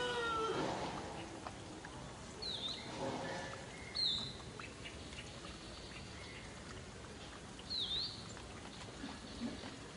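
A small bird gives three short, high chirps, each dipping and then rising in pitch, over quiet outdoor ambience. A drawn-out pitched call fades out just as the sound begins.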